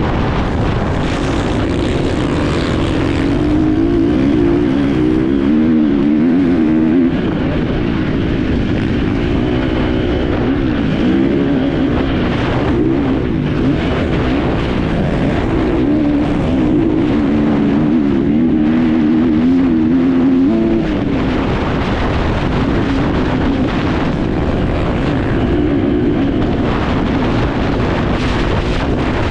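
Enduro motorcycle engine running hard under a rider, its pitch wavering up and down as the throttle is worked, easing briefly about 7 and 21 seconds in, with scattered knocks over rough ground.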